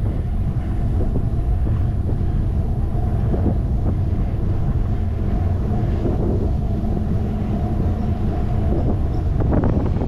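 Wind buffeting the microphone of a handlebar-mounted GoPro on a moving bicycle: a steady, loud low rumble.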